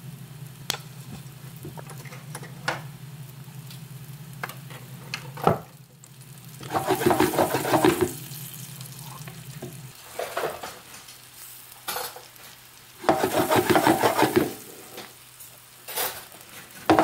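Seitan meatballs sizzling as they fry in oil in a pan, with a utensil scraping the pan and turning them in several bouts of a second or two.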